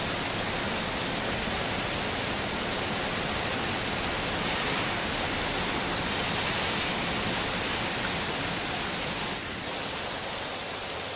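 Heavy rain falling steadily, a dense, even hiss with no separate drops standing out. About nine seconds in, the hiss briefly dips and loses its top end for a moment.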